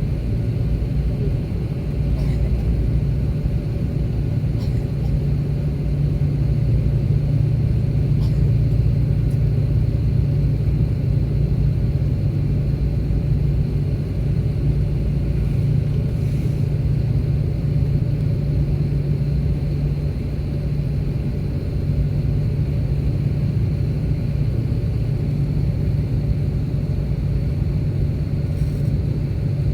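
Steady low rumble of an Airbus A330-300's cabin on the ground after landing, with a few faint clicks in the first ten seconds.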